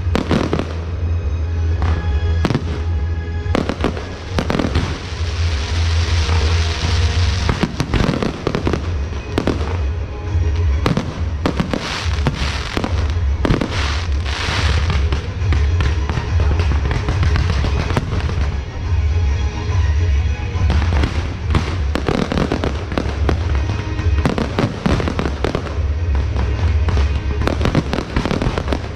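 Fireworks and firecrackers going off in rapid succession, sharp bangs throughout with stretches of dense hissing crackle about five to eight seconds in and again around fourteen seconds, over music with a steady low bass.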